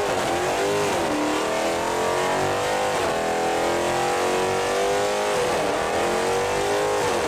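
Car engine under hard throttle, its pitch climbing over a couple of seconds and then dropping back, about three times over.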